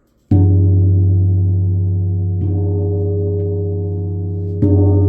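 A deep gong struck three times, the middle stroke lighter, each stroke leaving a long, steady low hum.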